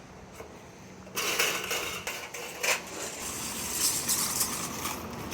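Aluminium gutter stock rattling and clattering as it runs through a seamless gutter machine. The metallic clatter starts about a second in, with several sharper clinks along the way.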